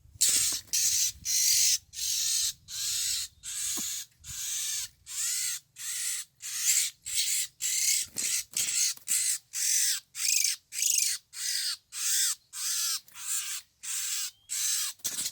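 Oriental magpie-robin giving harsh, rasping scolding calls, repeated steadily about twice a second.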